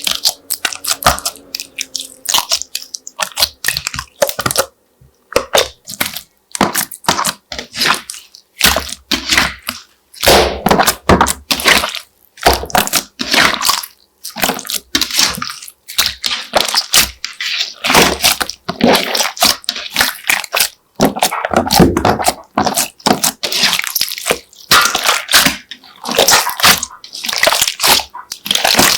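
Slime being squished and folded by hand, giving an irregular run of wet crackles and pops.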